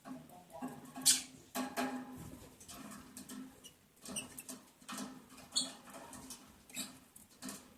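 Lovebirds scratching and shuffling, with short high squeaks at irregular intervals over a steady low hum.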